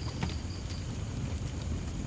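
Wood fire burning with a low steady rumble and occasional sharp crackles, one about a quarter second in. A cricket's high pulsed chirping carries on through the first part.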